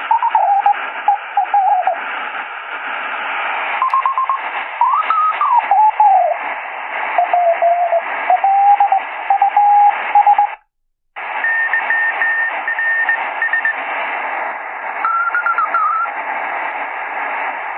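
Sony ICF-SW7600GR shortwave radio's speaker in lower-sideband mode on the 40 m amateur band: static and hiss with whistling tones that slide and waver in pitch as it is tuned. Later comes a broken, keyed tone. The audio cuts out completely for about half a second, about ten and a half seconds in, as the tuning steps up one kilohertz.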